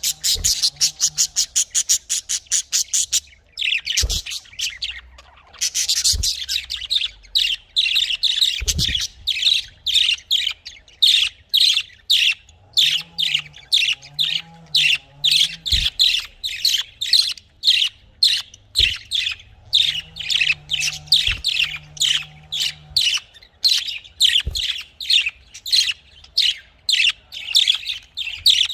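Budgerigars chirping and chattering in a fast, nearly continuous stream of short high calls, several a second.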